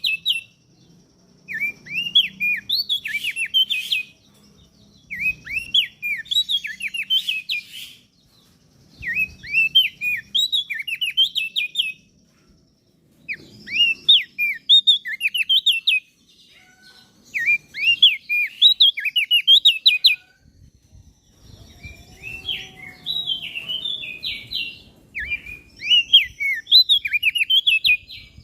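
Small songbird singing in repeated phrases of fast, high, chirping notes, each phrase a few seconds long with brief pauses between them.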